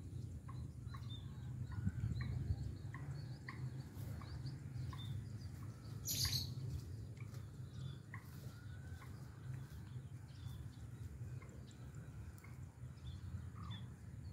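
Birds chirping in short, scattered calls, some repeating about twice a second near the start, over a steady low rumble, with one brief hissing burst about six seconds in.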